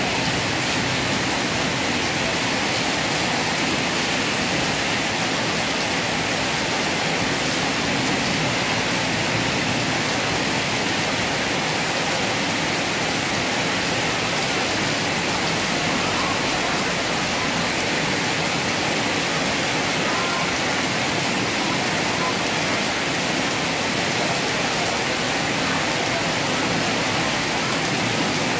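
Heavy rain pouring steadily onto a flooded street: a constant, even hiss with no breaks or thunderclaps.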